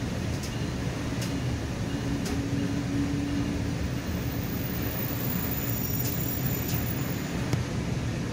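Interior rumble of a commuter rail coach as the train rolls slowly along a station platform, steady and low, with a few faint clicks in the first half and a brief hum a couple of seconds in.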